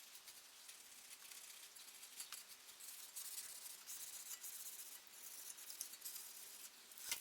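Faint dry rubbing and scraping with many small clicks, uneven in strength and strongest in the middle, ending with a sharp click.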